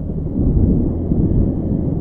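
Low, uneven rumble of wind buffeting the microphone, with a motorcycle engine running steadily underneath.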